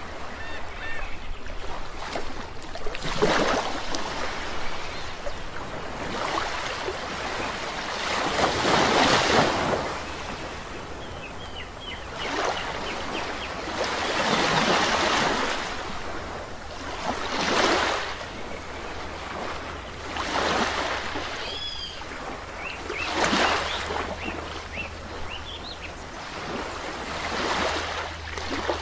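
Sea waves breaking and washing up on a beach, one surge every three to five seconds, with small birds chirping faintly between the waves.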